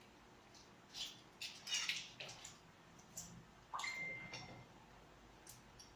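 Mouth noises of eating: a few short, wet smacks and clicks of chewing and lips, spaced out, with a brief squeak about four seconds in.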